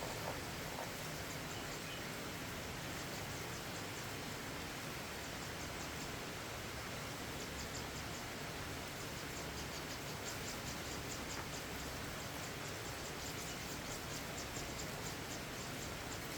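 Steady hiss of falling rain. From about seven seconds in, an insect chirps high in a fast, even pulse, about three to four chirps a second.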